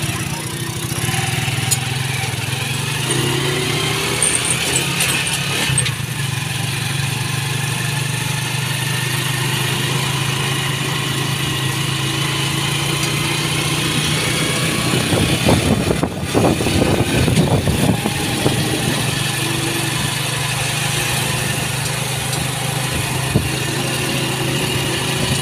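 Motorcycle engine of a sidecar tricycle running steadily at cruising speed, heard from the sidecar together with wind and road noise. The wind and road noise grow louder and gustier for a few seconds about two-thirds of the way through.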